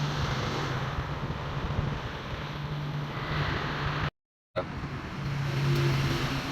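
Homemade blower fan driven by a salvaged water-pump electric motor, running steadily: a low motor hum under a rush of air. The sound breaks off for a moment a little past the middle.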